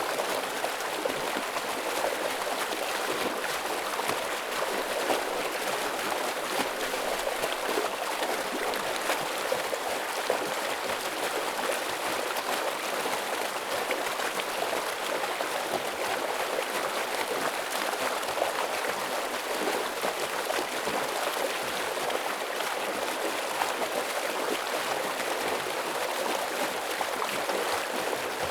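Steady rush of a fast mountain stream, water pouring and gurgling over rocks with no let-up.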